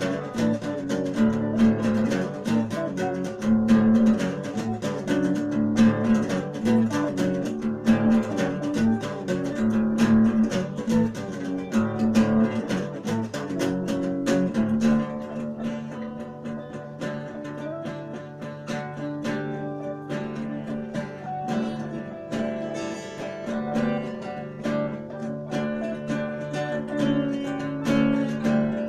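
Music played on acoustic guitar, plucked and strummed; it turns quieter and sparser about halfway through.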